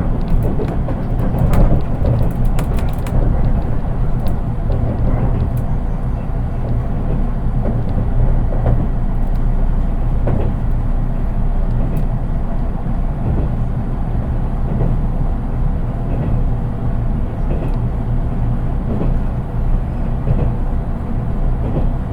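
Interior running noise of a JR East 183 series electric train, heard from its unpowered driving trailer car: a steady low rumble of wheels on rail, with no motor sound over it. A cluster of sharp clicks comes in the first few seconds, and a few single ones later.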